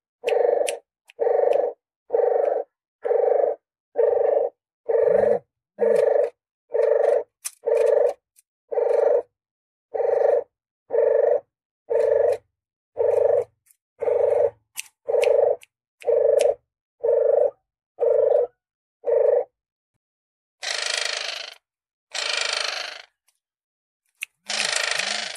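Lure recording of a puter geni dove's call. About eighteen short, hoarse pitched notes repeat evenly at a little over one a second, with clean silence between them. From about 20 seconds in they change to four longer hissing, rasping bursts, each about a second and a half long.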